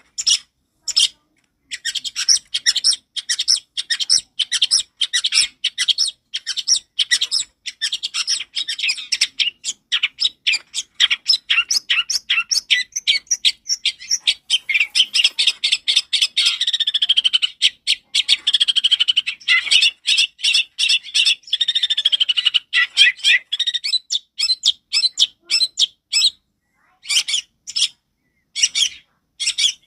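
Long-tailed shrike (cendet) singing loud and clear: fast runs of short, sharp, high chattering notes in bursts, with a more continuous warbling stretch about midway and brief pauses near the start and end.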